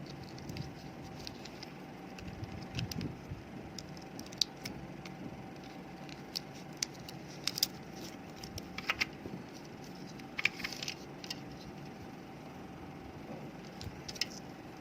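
Light plastic clicks and taps of hands handling an opened AL12A32 laptop battery pack and its cells, coming irregularly, with a cluster of sharper clicks around the middle.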